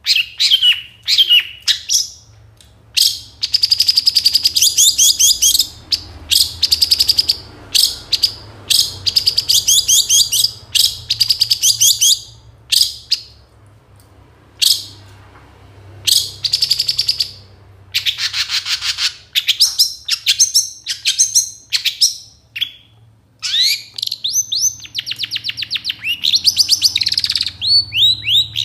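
Long-tailed shrike (cendet) singing a loud, varied song of rapid trills and quick note series, in bursts of a second or two with short pauses between. It is a 'full isian' song, packed with other birds' calls imitated in turn.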